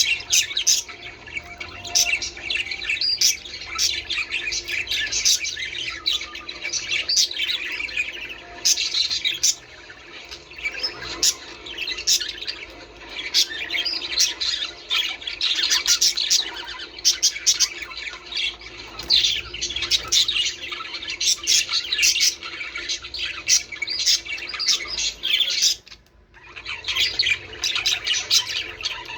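A flock of budgerigars chattering, with rapid overlapping chirps, warbles and short squawks, broken by a brief pause near the end.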